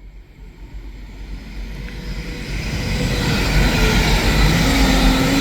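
A two-unit Class 185 diesel multiple unit approaching and passing at speed, its rumble and wheel-on-rail noise growing steadily louder. A steady engine or transmission tone joins near the end.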